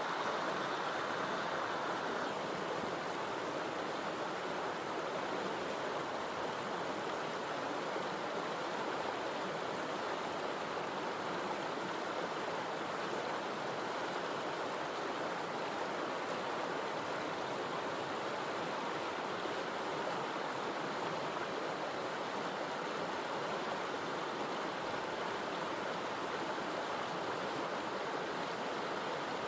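Steady rushing of flowing water, an even unbroken sound with no separate splashes or other events.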